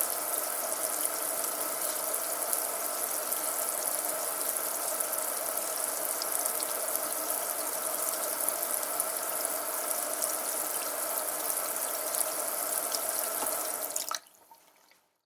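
Steady rain with a patter of drops and running, dripping water. It cuts off suddenly about a second before the end.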